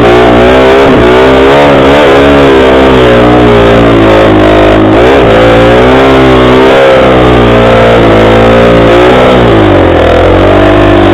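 Motorcycle engine running loudly while riding, its pitch rising and falling as the throttle opens and closes, with a deeper drop in pitch a little before the end.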